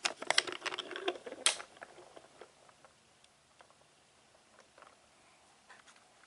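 Quick run of small clicks and clatter, like toy railway trucks and their couplings knocking as they are moved, loudest in the first second and a half, then only a few faint clicks.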